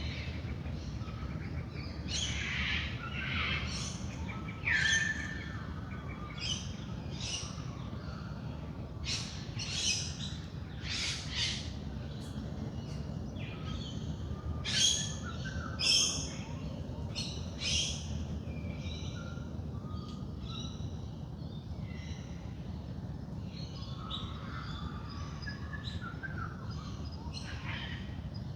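Wild birds calling in a dawn chorus: many short, overlapping calls and chirps, thick through the first two-thirds and thinning out near the end, over a steady low background rumble.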